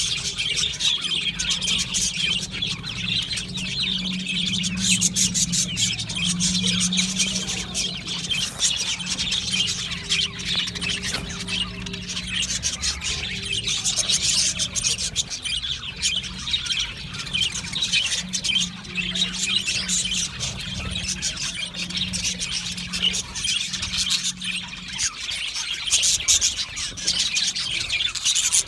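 Budgerigars chirping and warbling in a continuous, rapid chatter of high, short notes.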